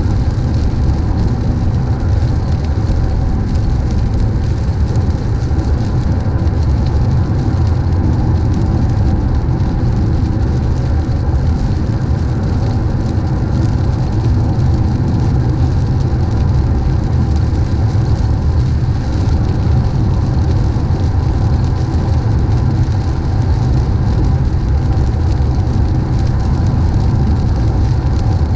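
Steady road noise of a moving car heard from inside, driving in the rain: a constant low rumble with a hiss of tyres on the wet road.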